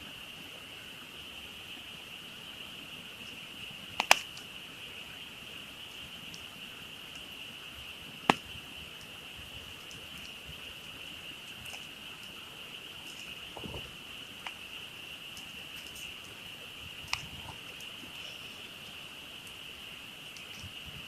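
A dense frog chorus calling steadily, with a campfire giving a few sharp pops of burning wood, the loudest about four and eight seconds in.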